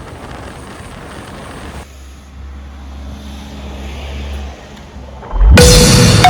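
Motorcycle riding noise: a rough rumble of engine and wind, then after a cut a steady low engine drone that grows louder. Loud mallet-percussion music comes in near the end.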